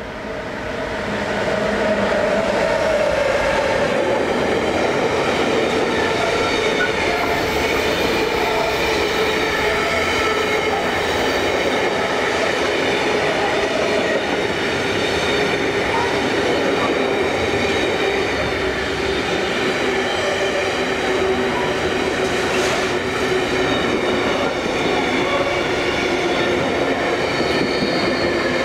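A train running past close by: a loud, steady rumble of wheels on rail that builds over the first two seconds and then holds, with several steady whining tones over it.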